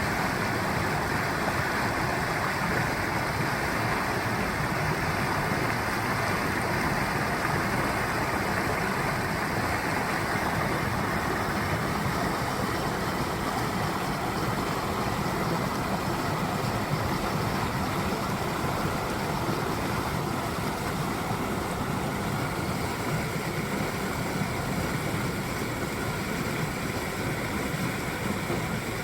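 Mountain stream water rushing steadily over rocks, a constant full splashing rush with no breaks.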